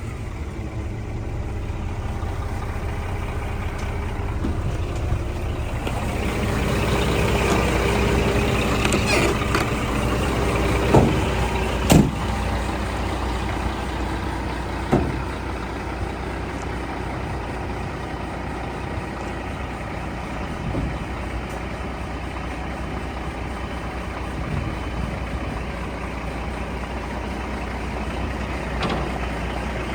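Scania R480 dump truck's diesel engine running steadily at idle, with a few sharp knocks or clicks around the middle.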